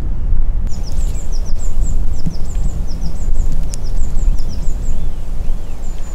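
Wind buffeting the microphone with a loud low rumble, while a small songbird sings a quick run of high, thin falling chirps starting about a second in.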